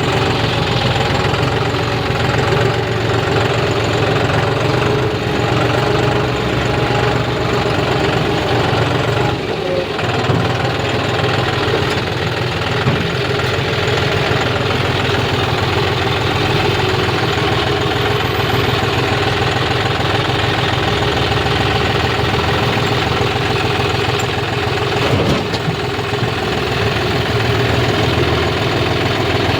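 Diesel engine running steadily around idle with a rapid knocking beat, dipping briefly twice, about nine and a half and twenty-five seconds in.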